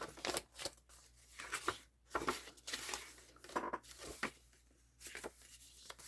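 Paper being handled: rustling and crinkling with a string of light taps and clicks, a longer rustle about two seconds in.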